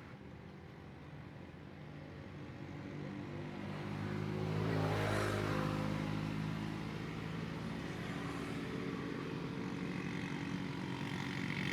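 A motor vehicle engine approaching and passing close by, loudest about five seconds in, with engine hum carrying on after it.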